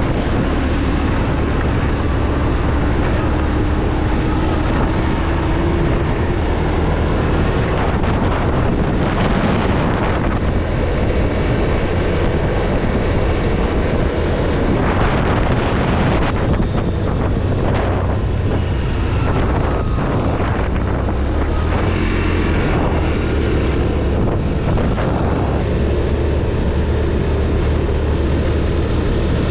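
ATV engine running under way, its pitch rising briefly a few seconds in, with wind buffeting the microphone.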